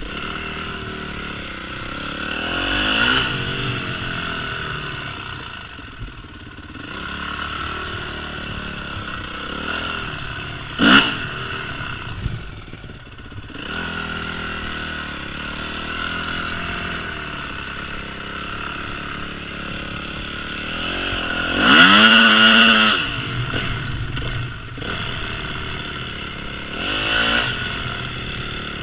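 Yamaha YZ250F four-stroke single-cylinder dirt bike engine being ridden, rising and falling in pitch as the throttle is opened and closed over and over. There is a short sharp blip about a third of the way in, and the loudest rev comes about three quarters of the way through.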